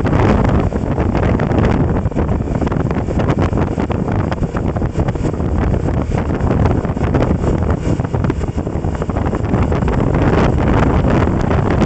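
Heavy wind noise buffeting the microphone while travelling, a dense low rumble with constant gusty flutter.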